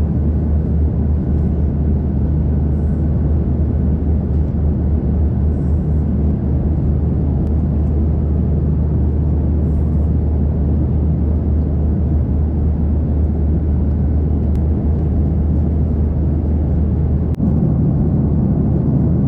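Steady low rumble of an airliner heard from inside the cabin, engine and airflow noise with no change in pitch.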